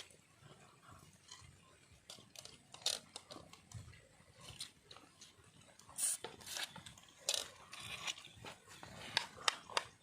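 A person chewing and biting food close to the microphone: scattered, irregular wet clicks and small crunches, with a few louder bites near the middle and toward the end.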